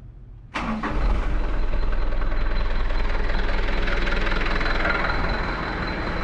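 Truck engine starting, catching almost at once about half a second in, then idling steadily through a newly fitted HKS aftermarket exhaust, with a thin high whine running along with it.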